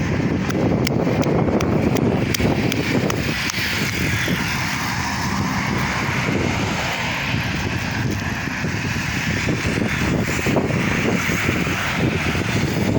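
Steady road-vehicle noise: a heavy truck's engine and tyres, with no clear build-up or fade.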